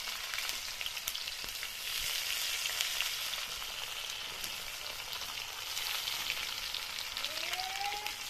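Chopped ginger and garlic sizzling and crackling steadily in hot oil in an iron kadai, along with bay leaf, dried chilli and panch phoron tempering.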